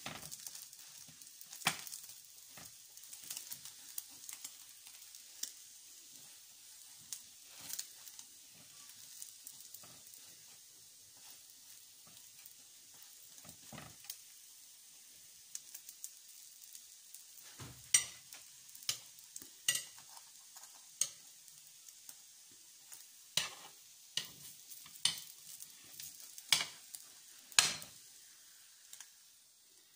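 French toast frying in oil in a nonstick pan, a steady high sizzle, with sharp clicks and taps that come thickest in the second half.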